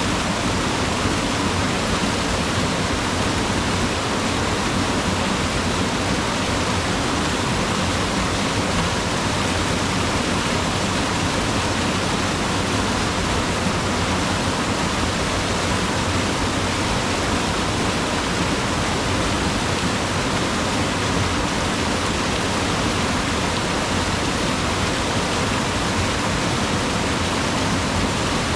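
Mountain river rushing over rocks, a steady unbroken roar of water.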